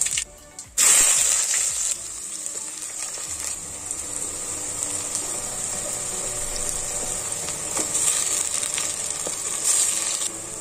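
Chopped onions and green chillies dropped into hot oil in an aluminium pot set off a sudden loud sizzle about a second in. The sizzle then settles into a steady frying hiss.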